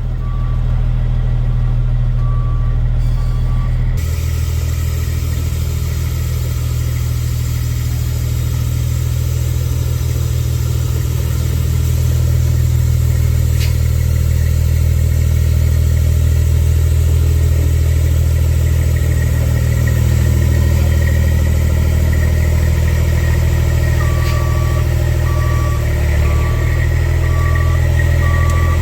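Heavy diesel truck engine, the M11 Cummins of an International 8100 dump truck, running steadily under a loud low hum. A high electronic beep repeats evenly at the start and again near the end.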